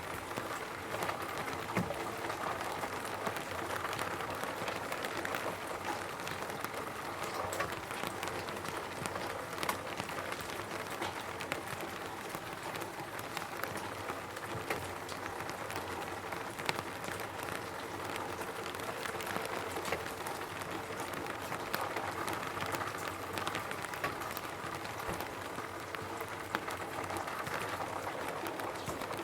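Rain falling steadily on a roof: a constant patter with many separate drops clicking sharply on the surface.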